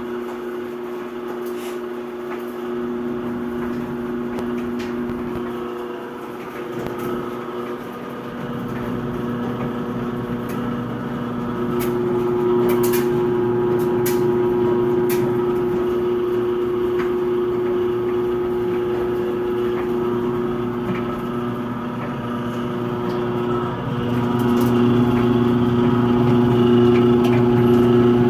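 Whirlpool clothes dryer giving off a steady, loud electrical buzz, an annoying hum that starts when its on button is pressed. The buzz grows louder about halfway through and again near the end, with a few sharp clicks along the way.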